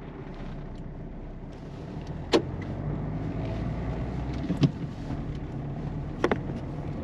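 A 2008 Peugeot 207 1.4 turbo diesel driving over a rough road, heard from inside the cabin: a steady road and engine drone with three sharp clunks as the front suspension hits holes, about two seconds in, near the middle, and near the end. The clunks point to a worn front suspension part that the owner has not yet pinned down: strut mount bearing, lower ball joint, sway bar links or control arm bushings.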